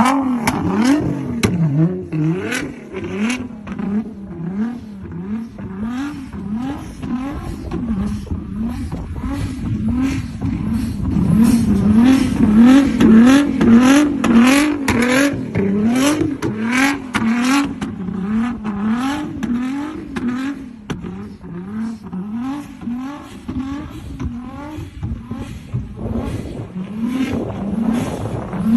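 High-performance car engine revved over and over in quick blips, its pitch climbing and dropping back again and again, with sharp crackles from the exhaust.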